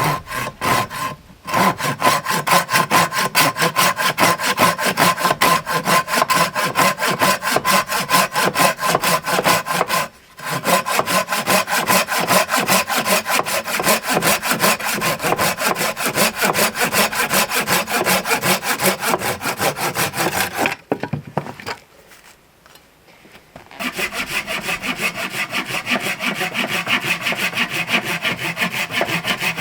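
Silky Japanese pull saw cutting through firewood in quick, even strokes. The sawing stops briefly about ten seconds in, and again for a few seconds about two-thirds of the way through, then starts again.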